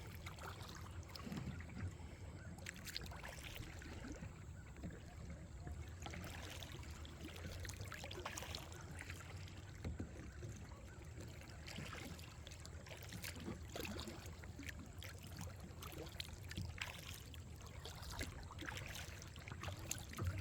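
Kayak paddle strokes in creek water: irregular small splashes and drips from the blades, with a low steady hum underneath.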